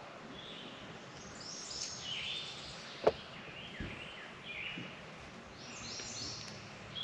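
Birds chirping and singing, with many short high notes that slide downward, over steady outdoor background noise. A sharp click about three seconds in is the loudest sound.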